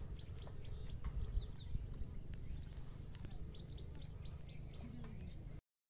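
Small birds chirping repeatedly in short high calls over a low steady rumble; all sound cuts off suddenly near the end.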